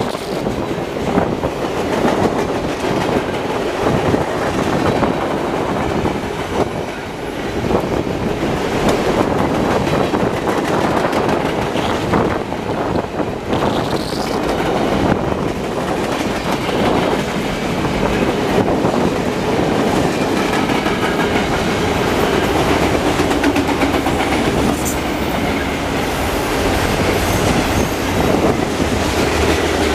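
Freight cars of a long train rolling past close by: a steady rumble of steel wheels on the rails with irregular clicks and knocks as the wheels cross rail joints.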